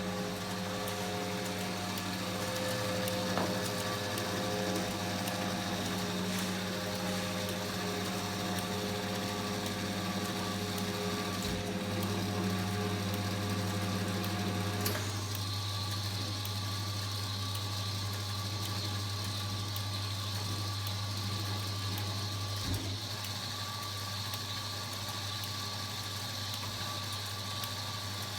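Kenwood washing machine running with a steady mechanical hum. About halfway through, the sound changes abruptly: the lower tones drop away, leaving a deeper, steadier hum with a faint high whine. A few isolated clicks are heard.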